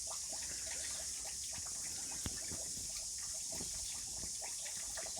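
Steady rain hissing down, with many scattered drips and small ticks.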